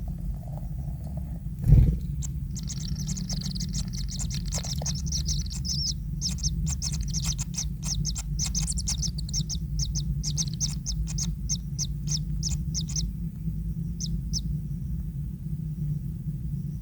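A single thump, then a long, fast run of shrill, high chirping calls from a kingfisher, many strokes a second, which stops and gives two last chirps a second later. A steady low rumble runs underneath.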